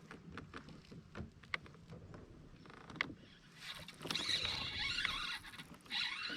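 Small clicks and knocks from gear being handled on a kayak, then a loud rush of noise about four seconds in and a shorter one near the end.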